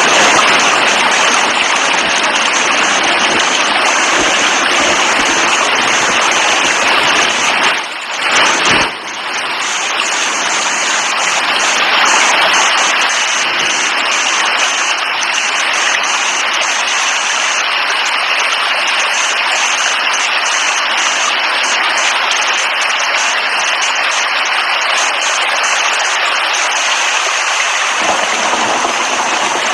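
Steady heavy rainfall, a dense even hiss, with a brief dip and swell in level about eight seconds in.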